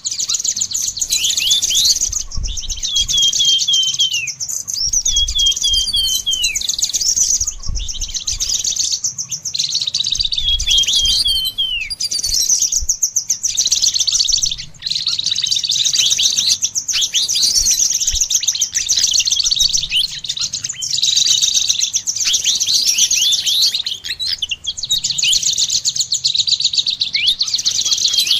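Cage songbirds singing continuously: a dense, high chirping chatter overlaid with repeated runs of short, quick whistled notes that drop in pitch.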